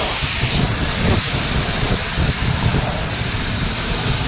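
High-pressure water spray from a car wash wand, a steady loud hiss of water hitting the car, with a low rumble underneath.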